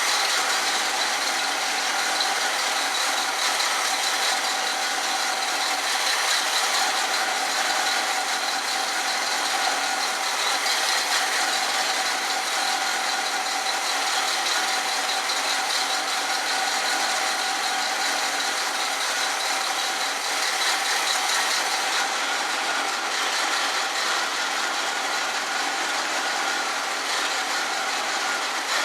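1976 Pontiac Firebird Formula's V8 idling steadily with a mechanical rattle, running cold and a little slow while the carburetor's idle speed screw is turned up about a quarter turn.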